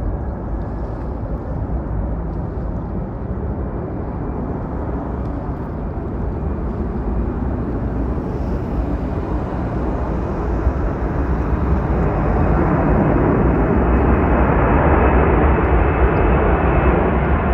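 Airliner taking off, a steady rushing engine noise that grows louder about two-thirds of the way through.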